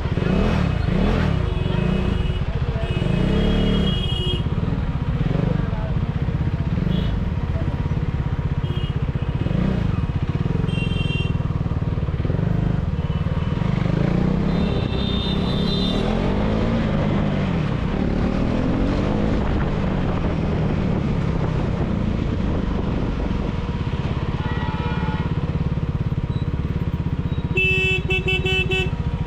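KTM Duke 390's single-cylinder engine through an aftermarket dual exhaust, ridden with the revs rising and falling through the gears. Short horn toots from traffic sound several times.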